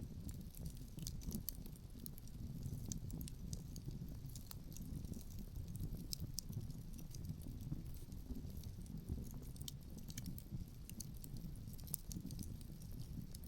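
Outdoor wood fire crackling, with many irregular small pops and snaps over a steady low rumble of wind.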